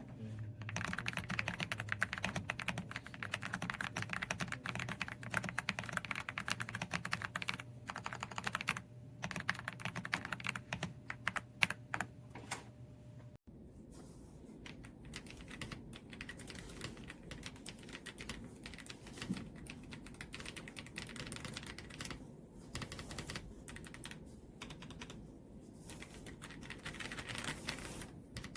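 AULA F99 mechanical keyboard with pre-lubed linear switches being typed on fast, a dense clatter of keystrokes with a few short pauses. A low hum behind the typing stops abruptly about halfway through.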